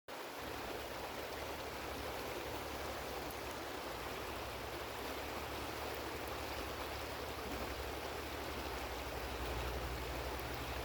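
A small mountain river running steadily over its bed, a continuous rushing of water, with a low rumble underneath.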